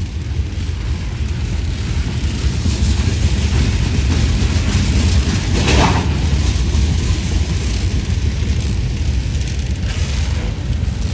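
Freight train cars rolling past on the rails with a steady low rumble. A brief louder rushing sound comes just over halfway through.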